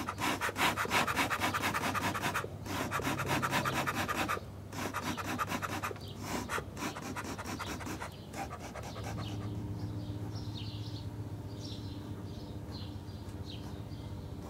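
A bee smoker being worked to get burlap fuel burning: rough, rasping puffs of air in four spells over the first eight seconds. After that it goes quieter, with birds chirping.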